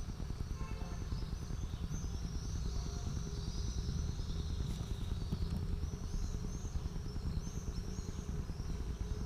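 Birds calling over and over in short, high, arching notes, over a steady low rumble.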